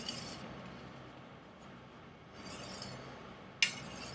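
Chinese chef knife blade stroked across a strop loaded with green polishing compound: a few short, raspy scraping strokes spaced well apart, the sharpest near the end.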